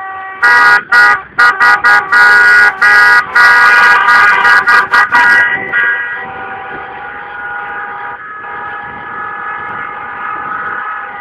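Car horns honking together: a run of loud, choppy short blasts through the first half, then a long held horn tone with others under it. This is celebratory honking from a car procession after a 3:2 win.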